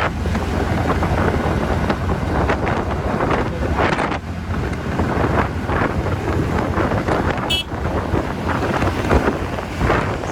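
Wind rushing over the helmet microphone while riding a TVS Ntorq scooter at highway speed, over the scooter's engine and tyre noise. A brief high beep sounds about seven and a half seconds in.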